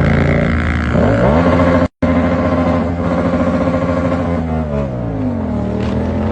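Motorcycle engine running and revving: the pitch climbs about a second in, the sound cuts out for a split second near two seconds, then the engine note falls and picks up again near the end.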